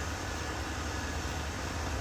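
Caterpillar D6R XL bulldozer's diesel engine running steadily with a deep, even rumble.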